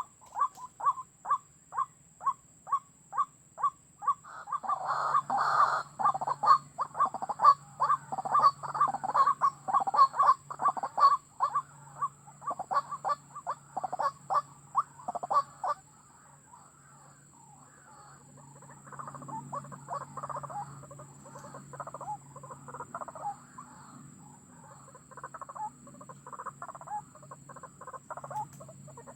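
White-breasted waterhen calls: a rapid string of repeated croaking 'ruak-ruak' notes, even at about three a second at first. From about four seconds in they become a louder, denser run of overlapping calls, and after about sixteen seconds they thin to quieter, scattered calls.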